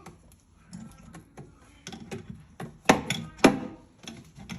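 A series of irregular sharp knocks and clicks of hard objects striking, the two loudest about three and three and a half seconds in.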